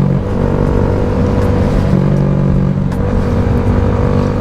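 Honda Grom motorcycle engine running at a steady pitch.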